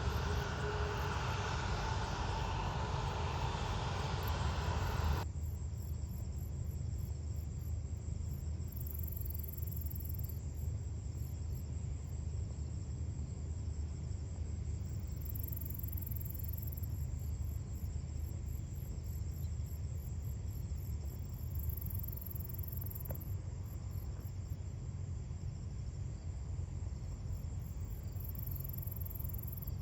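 An airliner's engines run with a steady rush until a sudden cut about five seconds in. Insects then trill high in on-and-off spells of a few seconds over a low, steady rumble.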